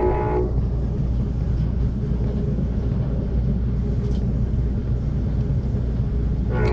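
Amtrak Cascades passenger train running at speed: a steady low rumble of wheels on rail. A held chord of steady tones cuts off about half a second in and starts again right at the end.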